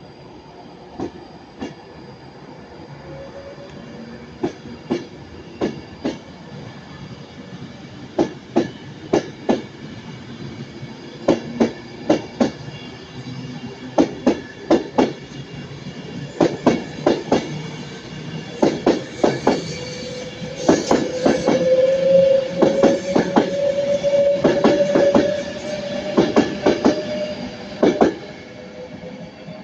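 Class 390 Pendolino electric train pulling away and passing close, its wheels clicking over rail joints in a rhythm that quickens as it gathers speed. A steady whine rises slowly in pitch through the loudest part.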